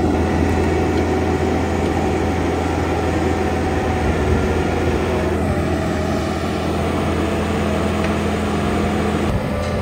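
Bobcat T86 compact track loader's diesel engine running hard and steady, driving a Coneteks 2.13M forestry rotor head that grinds stumps, roots and soil. A low engine hum sits under a dense grinding rush.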